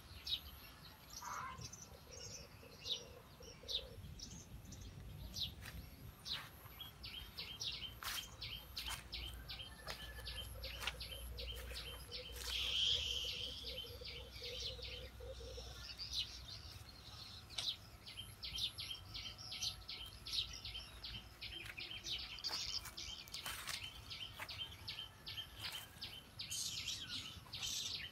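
Birds chirping: quick runs of short high chirps, several a second, through most of the stretch, with a louder burst about halfway.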